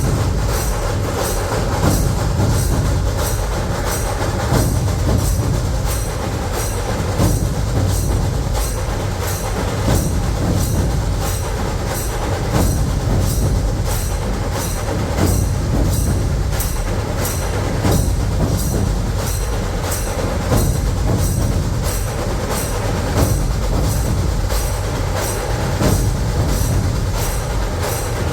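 Dhol-tasha ensemble playing at full strength: massed dhol drums pounding under rapid tasha drumming, with sharp strokes marking a steady beat about twice a second.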